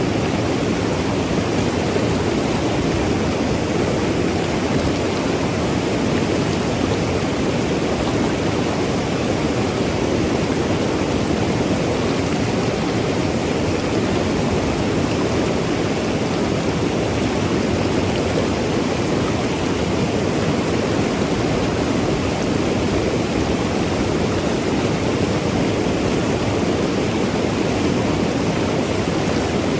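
Mountain river rushing over rocks, a steady loud rush of water with no change.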